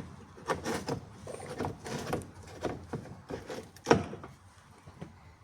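A run of short clicks and knocks from handling the buggy's controls before starting it, the loudest near the end.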